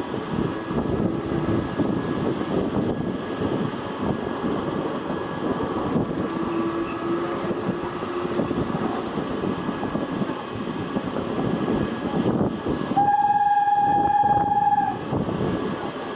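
Train passing on the line, its running noise steady throughout. About thirteen seconds in, a single steady horn blast lasting about two seconds.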